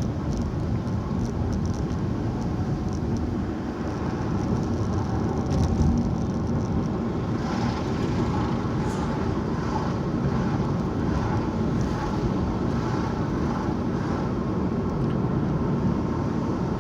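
Steady engine and road noise inside a moving car's cabin, with faint rattles and clicks now and then.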